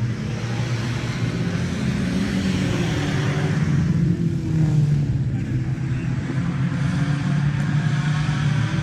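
A car engine running steadily at idle, swelling a little a few seconds in.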